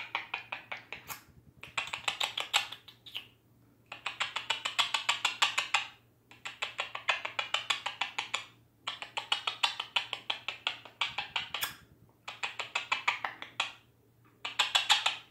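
Quaker parrot (monk parakeet) making rapid clicking sounds in repeated bouts of about two seconds, roughly eight to ten clicks a second, with short pauses between bouts.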